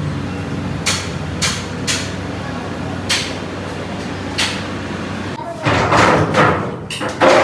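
A handful of sharp knocks, like hammer blows on metal, at irregular intervals over a steady low machine hum. Louder voices break in after about five and a half seconds.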